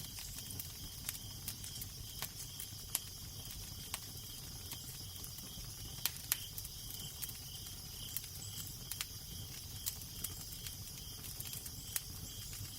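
Crackling fire: irregular sharp pops and snaps over a low, steady rumble of wind, with a faint high chirping pulsing about twice a second in the background.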